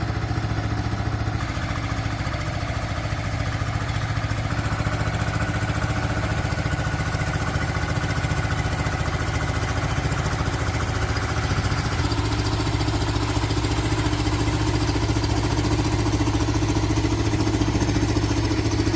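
Old tractor's engine running steadily, its note shifting slightly about twelve seconds in.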